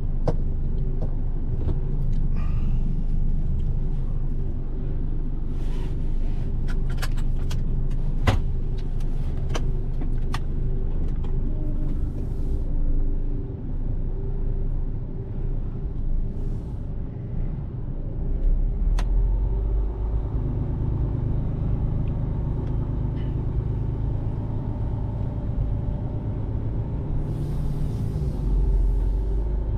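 Mercedes-Benz Actros truck's diesel engine running with a steady low rumble, growing heavier about two-thirds of the way through. Several short hisses of air and a few sharp clicks come over it.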